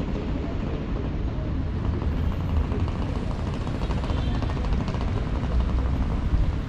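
City street traffic noise, with a vehicle engine running close by, its low rumble heaviest through the middle.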